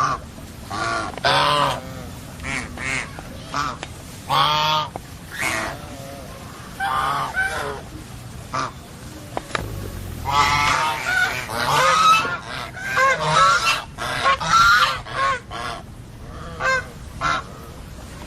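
Birds calling over and over, many short calls close together, busiest in the middle of the stretch.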